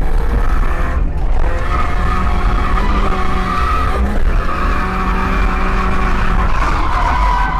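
Mazda MX5 1.6's four-cylinder engine held at high revs while the tyres squeal in a drift, with brief dips in engine note about a second in and again around four seconds.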